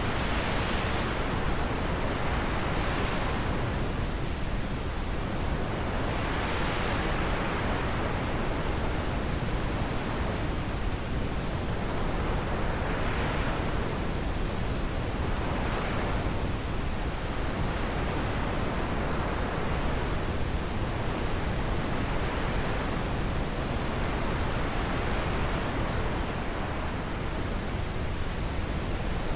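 Wind blowing: a steady rushing noise that swells and eases in gusts every few seconds.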